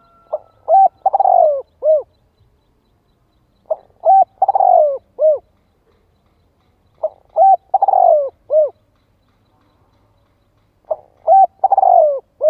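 Spotted dove cooing: four repeated song phrases, each a couple of short coos, a longer falling rolling coo and a short closing coo, about three and a half seconds apart. It is the dove's territorial call, used here as a decoy to provoke wild doves.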